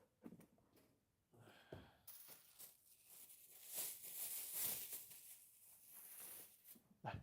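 A few soft knocks, then a hiss that starts suddenly about two seconds in and lasts about five seconds.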